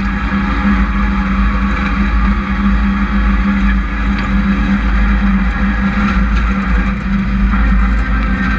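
Hobby-class race trucks running laps in a heat race, their engines droning steadily.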